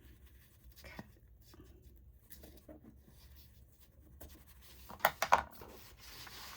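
Paper being handled and trimmed on a paper cutter: faint rustling and scraping, then a quick cluster of sharp clicks about five seconds in, followed by a brief scrape.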